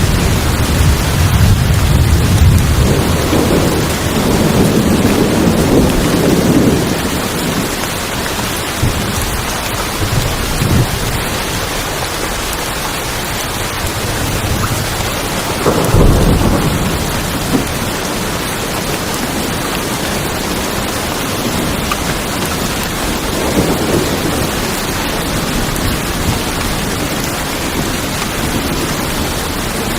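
Heavy rain pouring on tin roofs, a steady dense patter, with thunder: a long rolling rumble over the first several seconds, a sharper crack and rumble about halfway through, and lighter rumbles near the end.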